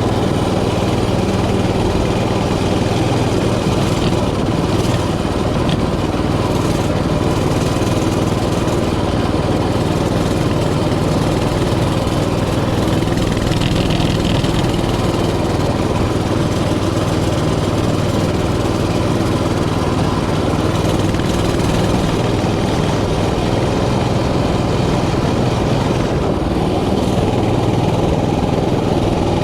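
Mini bike's small engine running steadily under way, its pitch and level holding even throughout.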